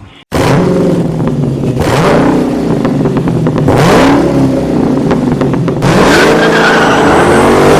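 A car engine revving hard several times, its pitch rising and falling, with tyre squeal or skidding noise.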